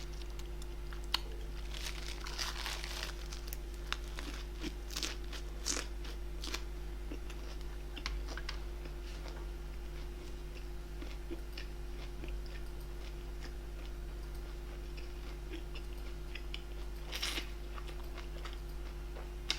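A person chewing and biting food close to the microphone, with scattered crisp crunches and wet mouth clicks. A steady low hum runs underneath.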